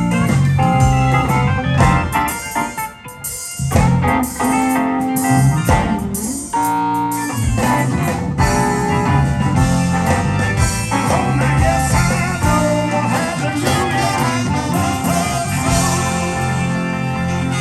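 Live blues band playing an instrumental passage, with guitar prominent. The band drops out briefly about three seconds in, then comes back in full.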